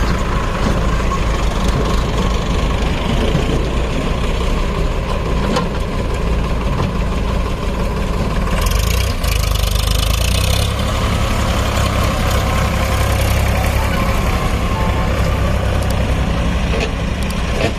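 Heavy diesel engines of a JCB 3DX backhoe loader and a tractor running steadily under a heavy pulling load. About halfway through, a hiss sounds for roughly two seconds, and the low rumble is stronger after it.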